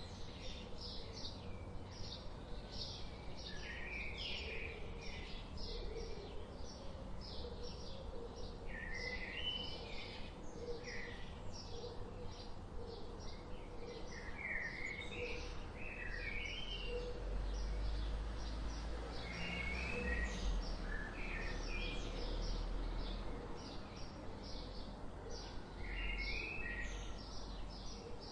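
Birds chirping: short high chirps repeating about twice a second, with scattered warbled phrases between them. A low rumble swells in the middle and fades again.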